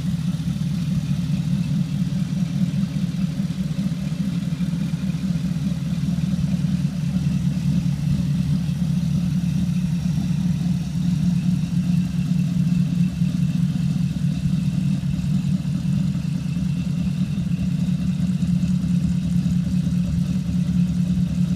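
1932 Ford roadster hot rod's V8 with triple carburettors, idling steadily.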